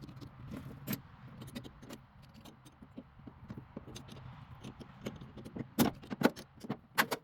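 Small metal tools and parts clinking and rattling as they are handled, with a few sharper clacks about six and seven seconds in.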